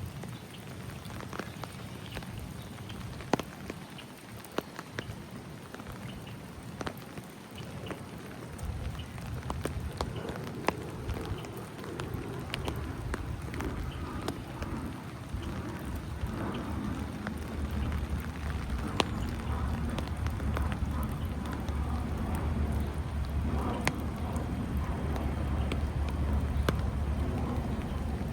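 Rain falling, with scattered sharp drops striking close by. A low rumble comes in about a third of the way through and grows louder toward the end.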